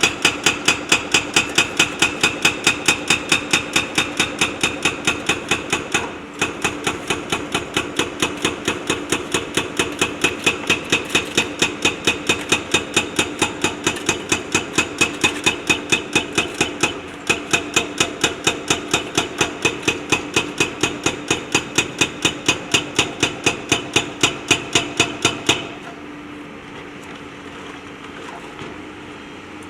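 Hydraulic rock breaker on a JCB backhoe loader hammering at stone, about three or four ringing metallic blows a second, with two short pauses. The hammering stops near the end, leaving the machine's diesel engine running.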